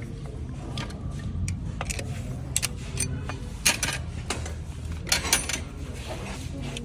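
Metal tools clinking and clattering several times over a steady low hum, with the sharpest clinks about two and a half to five and a half seconds in.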